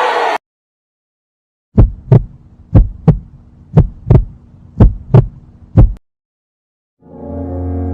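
Heartbeat sound effect: about five low lub-dub double thumps, roughly one a second. It follows a cheering crowd that cuts off suddenly near the start, and a steady low horn-like drone comes in near the end.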